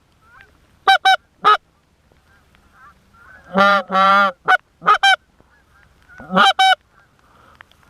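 Canada geese honking: loud short honks, several in quick pairs, and a longer drawn-out moan a little past halfway, over fainter scattered honking of a flock.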